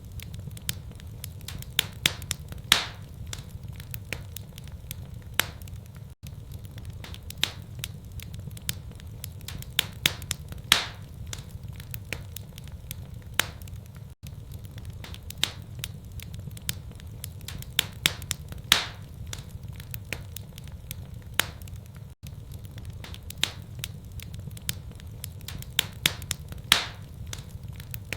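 Wood fire in a fireplace crackling and popping: many sharp little snaps over a steady low rumble, with a louder pop every few seconds. The pattern repeats about every eight seconds, each repeat marked by a brief dropout.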